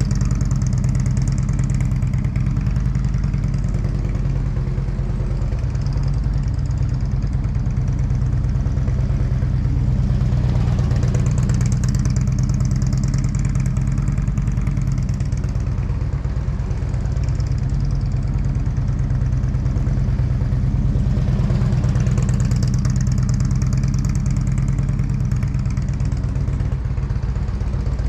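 Motorcycle engine running steadily at low speed during slow u-turn practice, its sound swelling about every ten seconds as it loops around.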